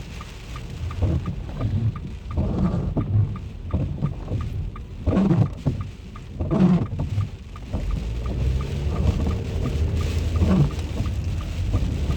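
Rain falling, with repeated bursts of low rumbling.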